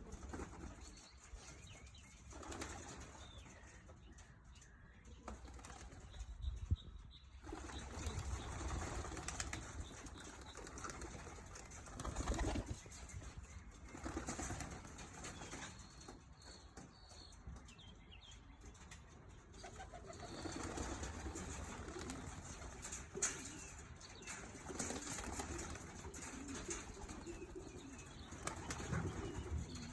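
Young homing pigeons flapping their wings in irregular flurries, with some pigeon cooing and a couple of sharp clicks.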